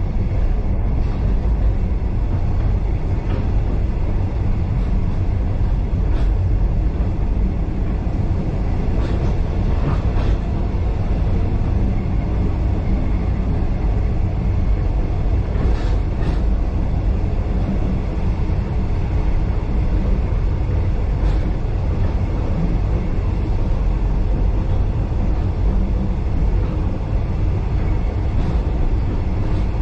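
Heritage steam-hauled passenger train carriage running along the track, heard from inside: a steady low rumble of wheels on rail, with a few scattered clicks and knocks.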